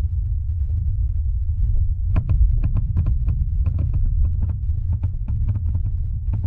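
Wind buffeting the microphone as a steady low rumble, with many irregular crackling clicks, thicker from about two seconds in.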